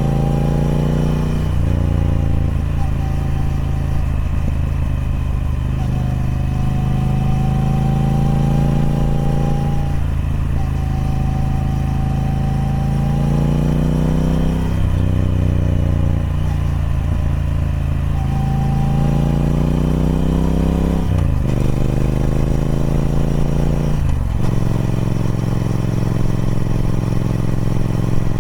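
Triumph Speed Twin 1200's 270-degree parallel-twin engine through its stock exhaust, pulling under load while being ridden. The note rises and falls repeatedly, dropping sharply at each of several gear changes, with steadier cruising stretches between and a thin whine over the top. Near the end it settles at a lower, steady note.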